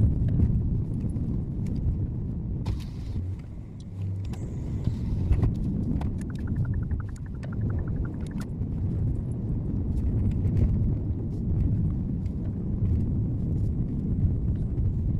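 Steady low rumble of a car driving on the road, road and engine noise heard from inside the car. About halfway through, a short run of fast, even ticking lasts a couple of seconds.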